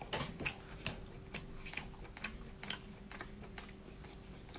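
Irregular sharp clicks and crackles, about two to three a second, from lobster shell being handled and broken apart while eating.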